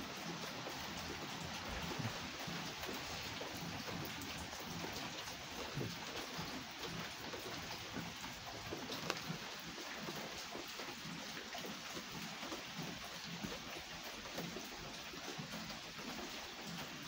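Steady rain falling, with a few sharper ticks of single drops striking close by.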